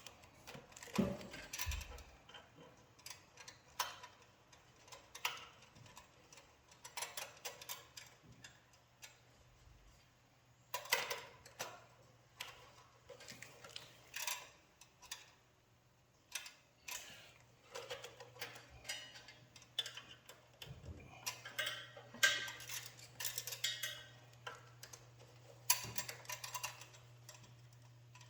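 Irregular small clicks, taps and rattles of hand work on the throttle linkage of a Tillotson 212 engine, as the throttle return spring and cable are fitted. A steady low hum comes in about a third of the way through.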